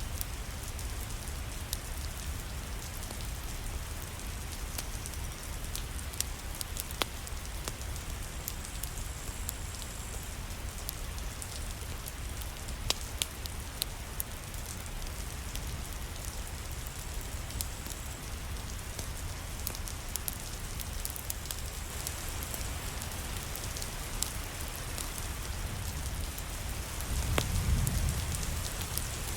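Steady rain falling, with a fireplace crackling in scattered sharp pops. A low rumble swells briefly near the end.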